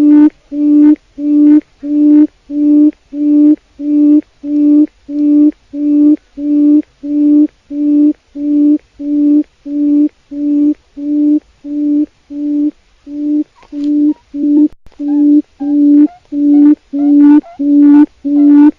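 Wild quail call: a low hooting note repeated steadily about twice a second, each note short and evenly spaced, with a few faint clicks breaking the rhythm around the middle.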